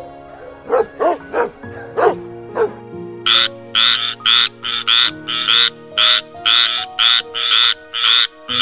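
A frog croaking in a rapid, even series of about three calls a second, beginning about three seconds in, over background music. It is preceded by a few short dog barks.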